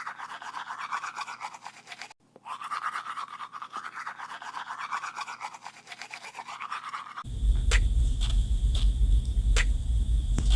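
Toothbrush scrubbing teeth in rapid back-and-forth strokes, pausing briefly about two seconds in. About seven seconds in it cuts to a low rumble with a few sharp clicks.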